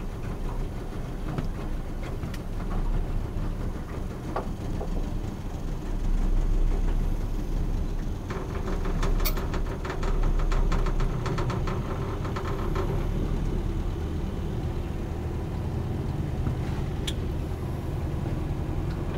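A small boat's engine running steadily with a low rumble, and a stretch of rapid ticking in the middle.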